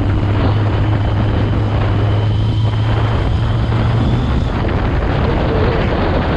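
Yamaha XJ650's air-cooled inline-four engine running through an aftermarket M4 exhaust, with a steady low note. The note drops away about four and a half seconds in.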